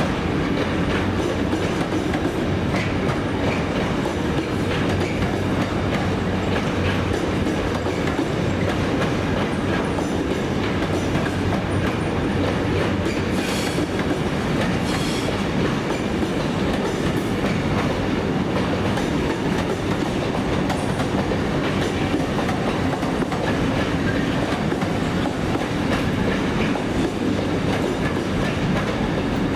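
A train rolling steadily past, its wheels clicking over the rail joints in a continuous clatter.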